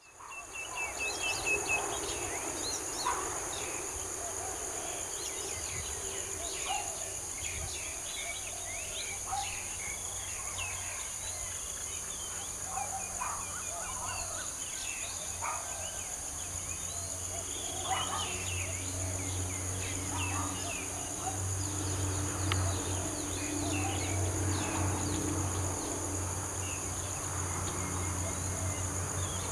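Insects keep up a steady high-pitched drone, with scattered bird chirps over it. From about 18 s in, a low steady engine hum comes in and grows a little louder.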